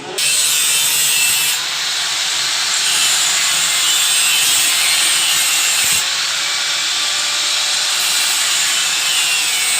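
Angle grinder cutting through a steel exhaust pipe: a loud, steady hissing cut that lasts the whole time, its tone wavering slightly as the load changes.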